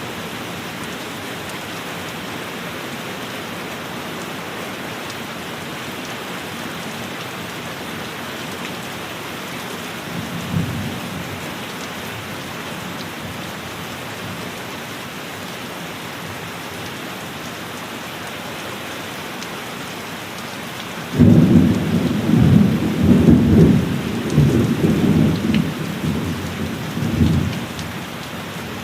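Steady heavy rain with thunder: a short low rumble about ten seconds in, then a loud crack of thunder a little after twenty seconds that rolls on in several surges for about six seconds before fading back under the rain.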